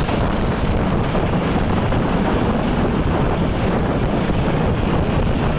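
Steady wind buffeting the microphone over a low, continuous rumble of road traffic.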